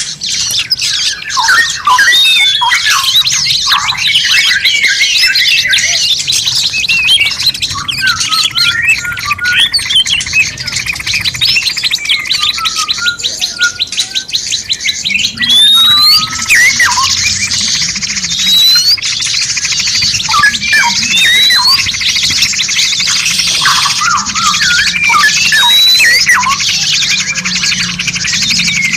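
Several songbirds chirping and singing at once over a steady high hiss. A rapid even trill comes about a third of the way in, and in the second half a rising whistled call repeats about every second and a half.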